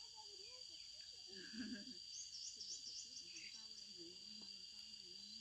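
Insects droning steadily in a high pitch, with a quick run of high chirps about two seconds in and faint low voices underneath.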